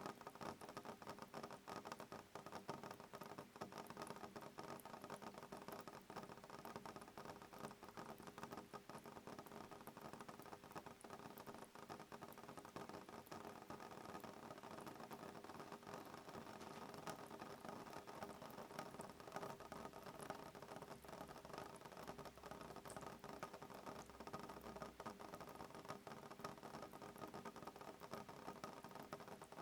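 Soft rain on a window pane: a faint, steady hiss dotted with many small drop taps, with no thunder.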